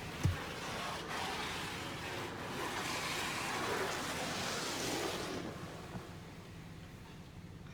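Touchless automatic car wash gantry passing over the car, heard from inside the car: a hiss of spray or air against the body that swells, holds for a few seconds and then fades. A short thump comes just after the start.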